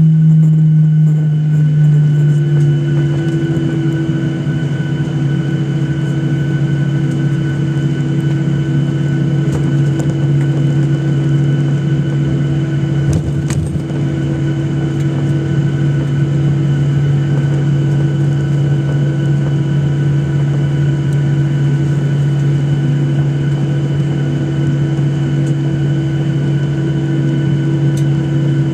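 Inside the cabin of a Boeing 737-800 on the ground, its CFM56-7B turbofan engines running at low taxi power: a steady hum and drone, its pitch easing slightly in the first two seconds and then holding.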